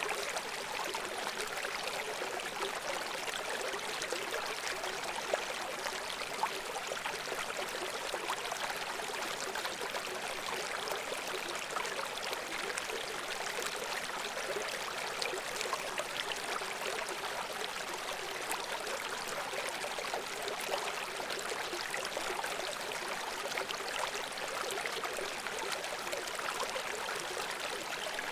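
A babbling brook flowing steadily over stones, with continuous splashing and gurgling.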